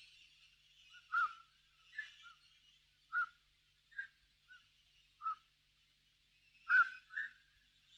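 Short, sharp bird calls repeating at irregular intervals, about once a second, over faint high chirping in the background.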